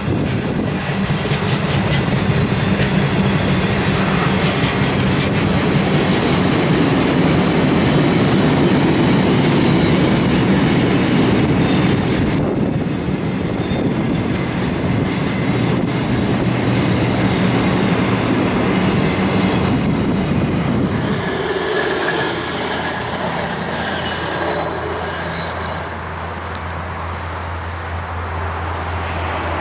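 Freight train wagons rolling past, wheels clattering over the rail joints in a loud, continuous rumble. About 21 seconds in this gives way to a quieter, steady low engine drone from a hi-rail four-wheel-drive running along the track.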